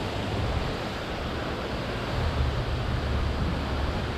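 Wind buffeting the microphone: a steady rushing hiss with a low rumble that gets stronger about two seconds in.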